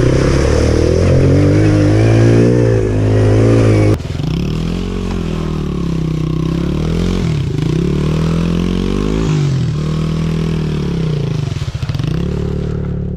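Pit bike engine running and revving, its pitch rising and falling again and again as the throttle is worked. The sound changes abruptly about four seconds in.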